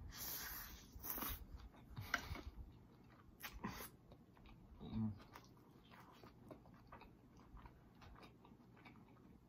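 A person chewing a mouthful of steamed purple cabbage, with soft wet mouth clicks. The clicks cluster in the first few seconds, there is a short closed-mouth hum about five seconds in, and the chewing then goes on quieter.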